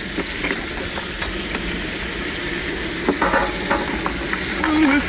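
Seafood sizzling and frying in a hot wok as sea snails are tipped in and stirred among crab and lobster, a steady hiss with occasional knocks and clicks.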